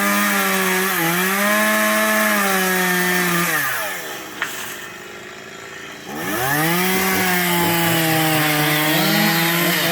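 Chainsaw running at high revs while cutting through wood, its pitch dipping briefly under load. It winds down after about three and a half seconds, drops to a low murmur for about two seconds, then revs back up and cuts steadily again.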